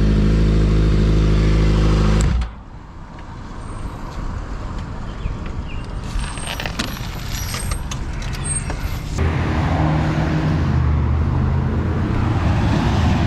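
Motorcycle engine idling steadily, then switched off about two seconds in. A few clicks follow, and from about nine seconds in another vehicle's engine hums steadily.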